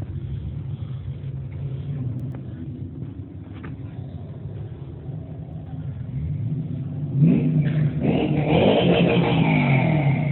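Car engine running at a low rumble, then revving loudly about seven seconds in, its pitch climbing and falling with the throttle.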